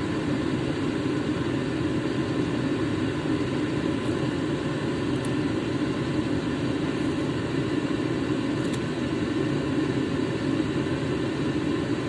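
A steady mechanical drone with an even, air-like rushing noise and a faint hum, unchanging throughout, like a fan or air-handling unit running in the room.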